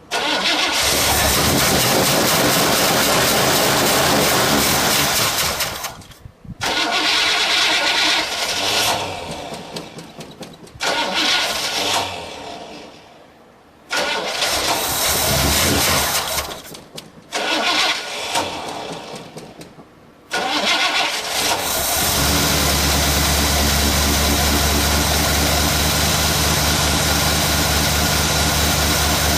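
1979 Chevrolet Caprice's 305 V8 being cranked in about five bursts on a cold start after two years unused. About 22 seconds in it catches and keeps running steadily.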